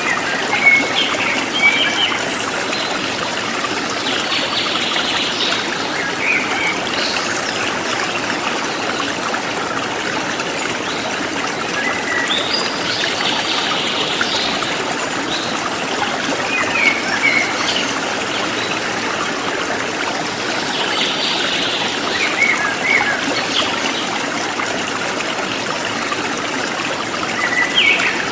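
Forest stream flowing steadily, with birds chirping briefly every few seconds over the water.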